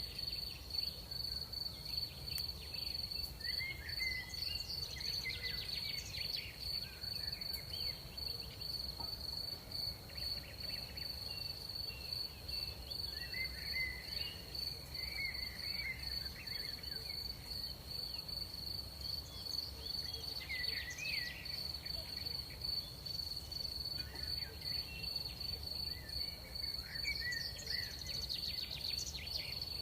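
Crickets trilling in one steady high-pitched band through the night. Short chirping calls come and go every few seconds over a low, even background hum.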